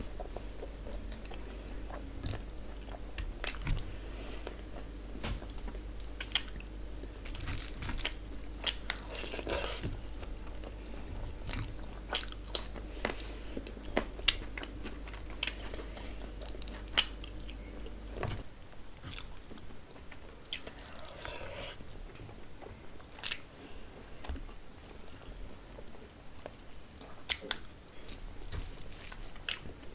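A person chewing and biting mouthfuls of rice and curry eaten by hand, with frequent short, sharp mouth clicks.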